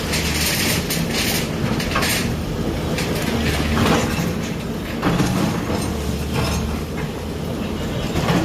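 Heavy diesel demolition machine running steadily, with intermittent clattering and rattling.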